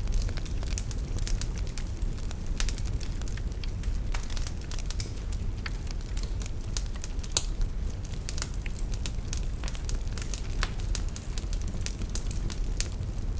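Fireplace fire crackling: irregular sharp snaps and pops over a steady low rumble of the flames.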